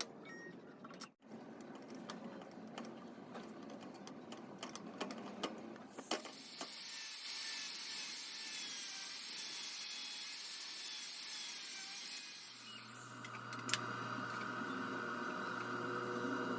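Workshop tool sounds: scattered light clicks and knocks, then about six seconds in a power tool starts with a loud, high hissing grind, which gives way near two-thirds through to a steady low motor hum.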